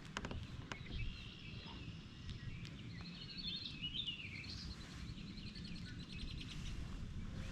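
Small birds chirping and warbling, with a burst of song a few seconds in, over a low steady outdoor rumble.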